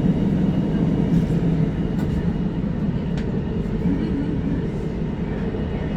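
Steady running noise of the Hakodate Liner electric commuter train from inside the car, wheels rumbling on the rails, with a few faint clicks and wind noise on the microphone.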